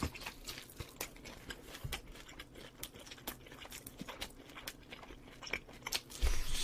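Close-miked chewing and biting into grilled corn-bake chicken: irregular soft crunches and mouth clicks, with a louder low thump near the end.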